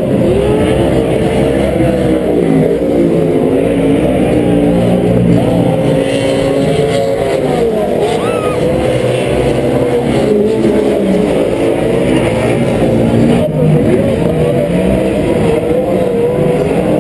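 Several Pro 4 off-road race trucks running on the track, their engines revving up and falling back in overlapping pitch swoops as they accelerate and lift around the course.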